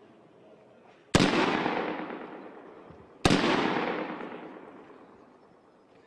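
Two single shots from a Heckler & Koch G36 assault rifle in 5.56 mm, about two seconds apart. Each crack is followed by a long echo that fades over about two seconds.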